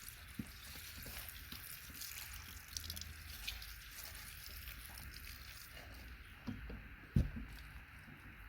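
Hydrochloric acid being poured over a bucket of gold-plated pins and connectors, a faint trickle with small clicks of metal parts. A single knock comes about seven seconds in.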